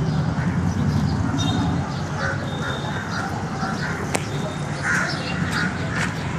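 Birds calling outdoors, with short repeated calls over a low steady rumble that drops away about two seconds in. There is a single sharp click a little past the middle.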